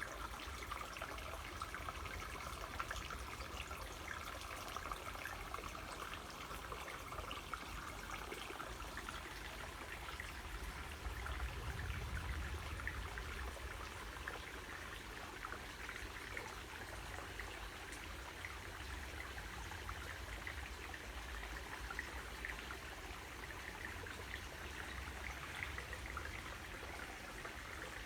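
Small waterfall: water falling and splashing steadily, with a trickling, dribbling texture.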